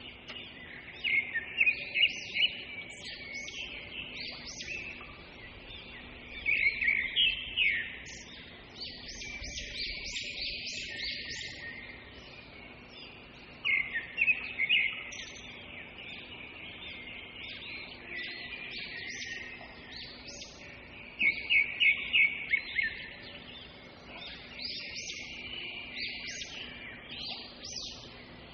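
Birds calling: a continuous high chatter, broken every few seconds by louder bursts of quick, rapid chirps.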